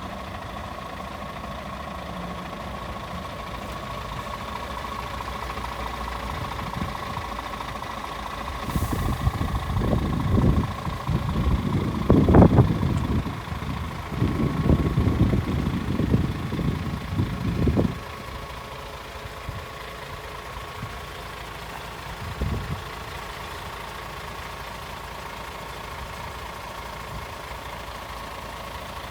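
DAF CF450 truck's Paccar six-cylinder diesel engine idling steadily. A louder, uneven low rumble comes and goes from about a third of the way in until past the middle, then the steady idle resumes.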